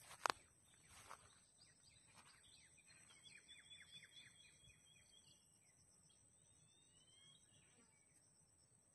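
Faint outdoor ambience. A bird gives a quick run of short falling notes with a high held note over them in the middle, then a few short rising calls. A steady high-pitched tone runs throughout, and a sharp footstep sounds just after the start.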